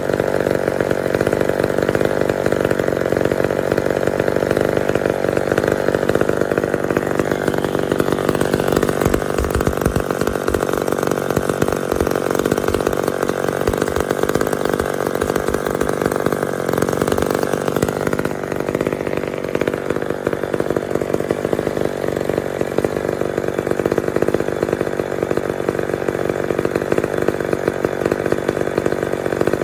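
McCulloch Mac 10-10 two-stroke chainsaw running steadily, its pitch dropping about two-thirds of the way through.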